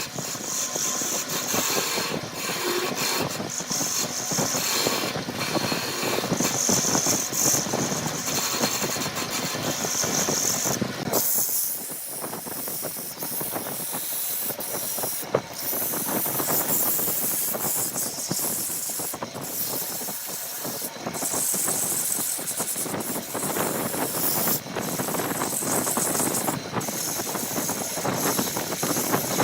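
Woodworking machinery running and cutting wood, a steady mechanical hiss and rattle whose character changes abruptly every few seconds.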